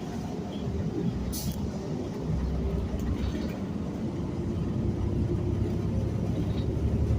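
City bus running: a steady low engine and road rumble that grows heavier about two seconds in, with a short hiss about a second and a half in.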